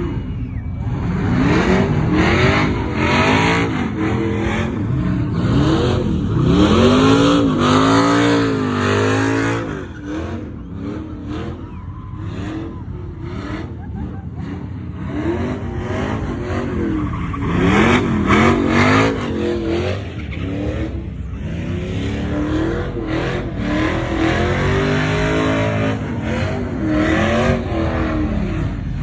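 Truck engines revved hard over and over, the pitch sweeping up and falling back in repeated bursts of throttle.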